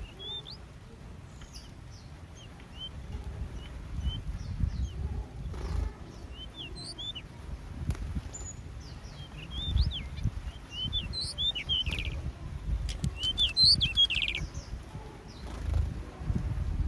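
Small aviary birds chirping in short, high calls, sparse at first and busier in the second half, with a few sharp clicks among them. A low rumble swells and fades underneath.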